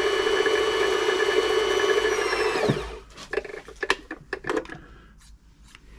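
Toyota 2640 sewing machine's motor running at a steady high speed while winding a bobbin, then slowing and stopping about three seconds in. A few light clicks and taps follow.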